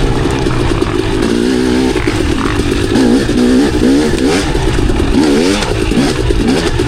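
Dirt bike engine running under a constantly changing throttle, its pitch rising and falling in quick revs, with some clatter from the bike over rough ground.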